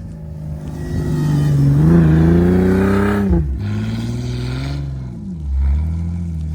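A 4x4's engine revving up and held high for a couple of seconds, then dropping off suddenly about three seconds in, followed by lower, uneven revs and a short burst near the end.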